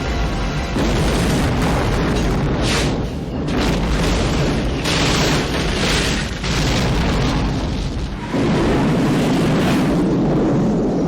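A series of big film explosions over a continuous deep rumble. Fresh blasts hit about a second in, near three seconds, around five to six seconds, and again just past eight seconds.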